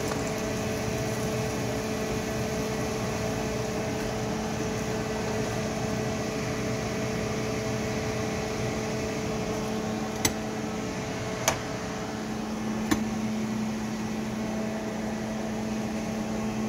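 Crappie fillets frying in hot oil in a skillet, a steady sizzle under a steady hum. Three sharp clicks of the spatula against the pan come past the middle, about a second apart.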